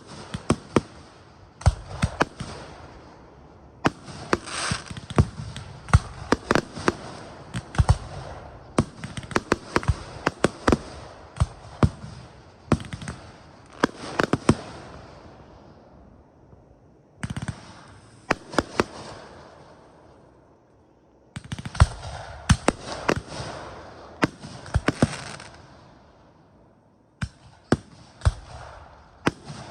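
Aerial fireworks bursting: rapid clusters of sharp bangs, each trailed by a fizzing crackle. Brief lulls fall about two-thirds of the way through and again near the end.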